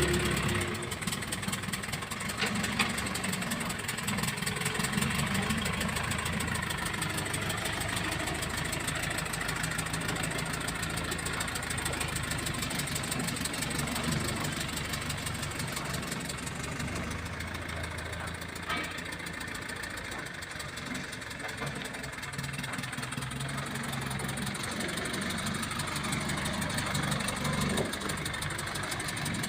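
Engine of a heavy machine running steadily at a low idle-like speed, with a couple of faint knocks, one a few seconds in and one past the middle.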